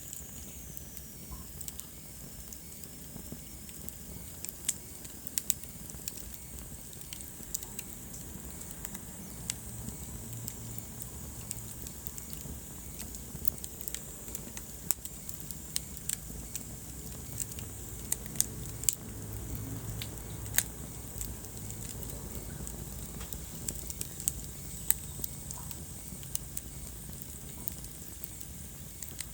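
Wood fire burning in a fireplace: irregular sharp crackles and pops of the burning logs over a steady low rush of the flames.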